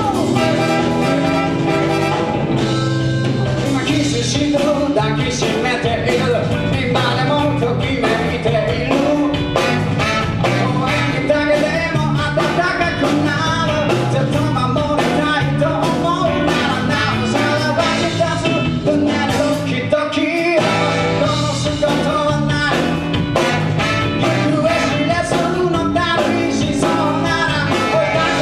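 Live band playing an upbeat rock-and-soul number with drums and bass driving a steady beat. The bass and drums drop out for a brief break about twenty seconds in.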